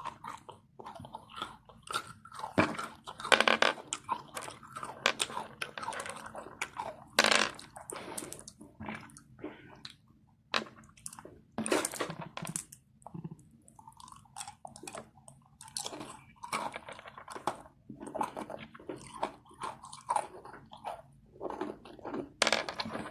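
A person biting into and chewing crunchy M&M's cookies, with irregular crunches.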